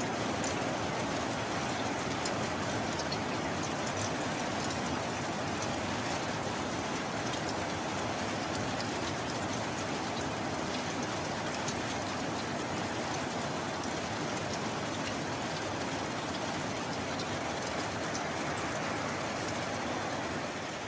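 Steady heavy rain: a dense, even hiss with faint scattered sharp drop ticks.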